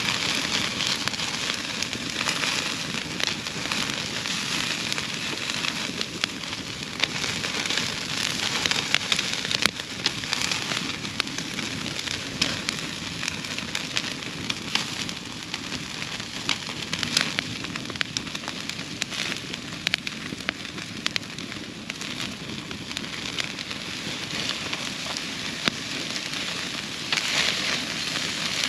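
Wood campfire crackling steadily, with frequent sharp pops over an even hiss.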